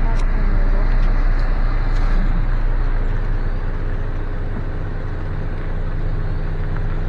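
Steady low rumble of a car creeping along, heard from inside the cabin: engine and road noise.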